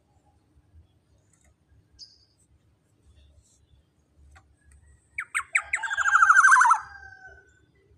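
Black-naped oriole (kepodang emas) calling: a few sharp notes about five seconds in run straight into a loud, fast rattling call that lasts about two seconds.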